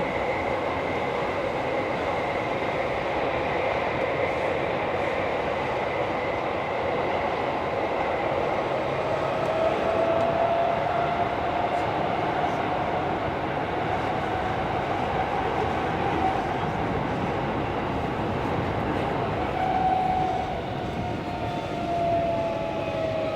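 Interior running noise of a Tokyo Metro 16000 series subway car at speed through a tunnel: a steady rumble of wheels and rails with a faint motor whine that drifts in pitch and glides down near the end.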